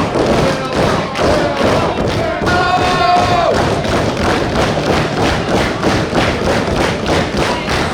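Repeated thuds of wrestlers' bodies and feet hitting the ring mat, coming in a quick run in the second half. A voice shouts and holds one note for about a second near the middle.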